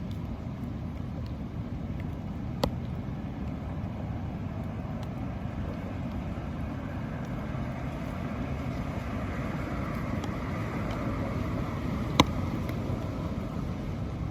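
Steady rumble of road traffic, with vehicle noise swelling in the second half. Two sharp clicks, one a few seconds in and one near the end.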